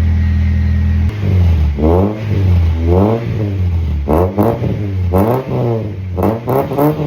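Honda Civic engine running through a new custom stainless exhaust, idling steadily, then blipped about six times in quick throttle revs that rise and fall in pitch.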